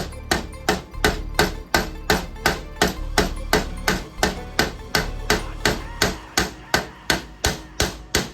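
Hammer striking repeatedly in a steady rhythm, about three blows a second.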